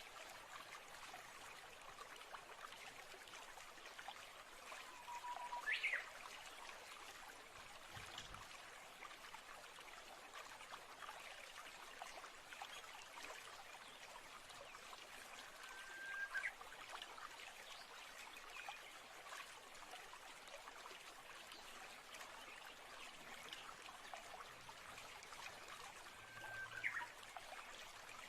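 Faint, steady trickling of a stream from a nature-sound track. A short whistled call, a held note that sweeps up at the end, comes three times, about ten seconds apart.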